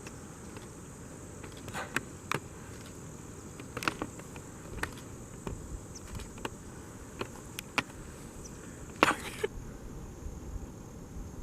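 Steady high-pitched insect chorus, cricket-like, with scattered irregular clicks and crunches on top, the loudest a short crackle about nine seconds in.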